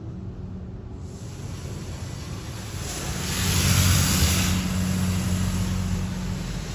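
PDQ Tandem SurfLine in-bay automatic car wash running with a steady low hum. A hiss of spraying water swells about three seconds in, peaks, and fades a couple of seconds later.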